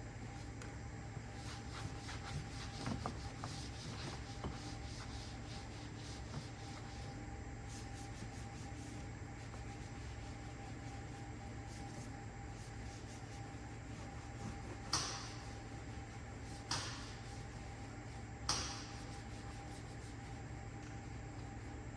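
Light rubbing and brushing on the engine during the first few seconds, then three short hissing sprays, each fading quickly, about two seconds apart, over a steady low hum.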